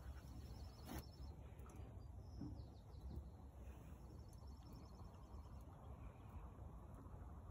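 Faint outdoor quiet with a steady low rumble and a small bird chirping in short high series now and then. A single sharp click comes about a second in.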